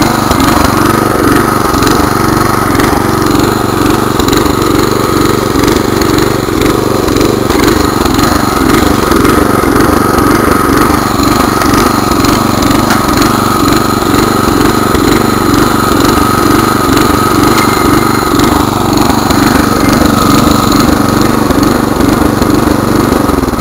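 Snapper garden tiller's 4 hp Briggs & Stratton single-cylinder engine running steadily, with a steady whine over the engine note.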